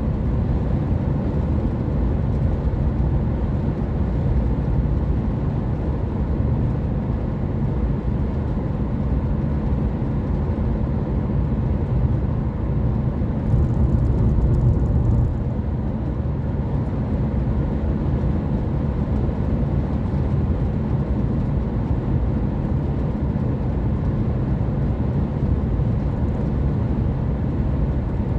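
A car driving: steady low engine and road rumble, swelling briefly about halfway through.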